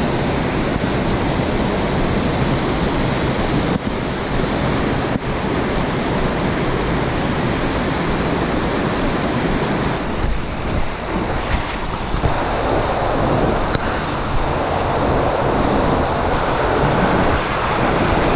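Creek water rushing steadily, with some wind noise on the microphone.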